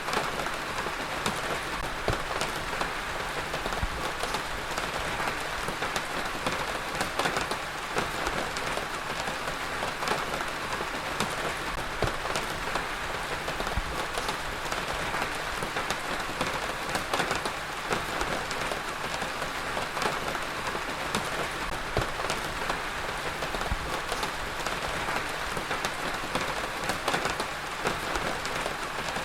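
Heavy rain falling steadily, a dense even hiss with many individual drops clicking and pattering on a surface.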